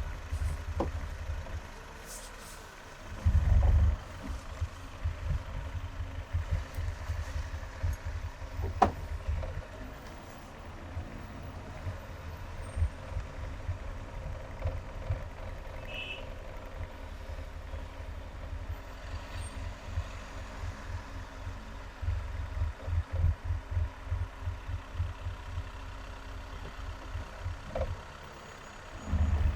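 Traffic noise from a car driving in heavy highway traffic: a steady low rumble with uneven low thumps, two louder bursts about three seconds in and just before the end, and a sharp click about nine seconds in.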